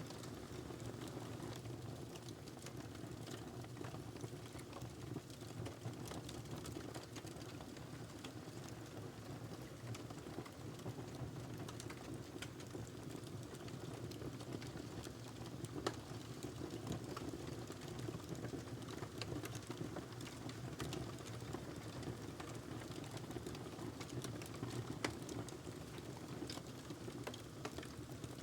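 Wood fire burning in a fireplace: a steady low rumble of flames with scattered small crackles and pops, two sharper pops about 16 and 25 seconds in.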